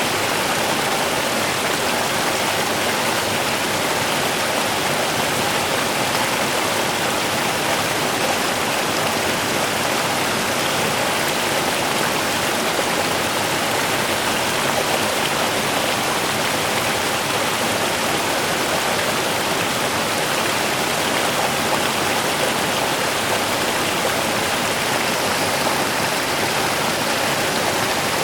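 A small river running: a steady, even rush of flowing water.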